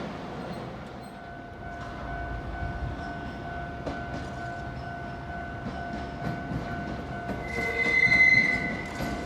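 Nankai Koya Line electric train running on the rails with a steady high whine. About seven and a half seconds in, the wheels give a loud high-pitched squeal that lasts about a second and a half.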